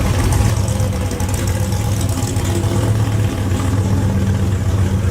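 A car engine running steadily at idle, a constant low note with no revving.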